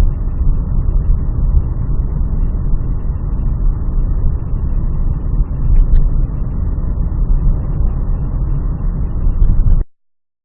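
Loud, steady rumble of a car's road and engine noise picked up by a dashcam microphone, heaviest in the low end, cutting off suddenly near the end.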